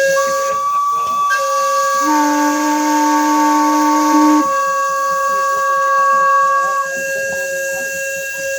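Several steam whistles blowing at once, each holding one steady note so that they sound together as a chord. A lower whistle joins about two seconds in and stops a little after four seconds, and a higher one cuts off about seven seconds in, leaving one whistle sounding.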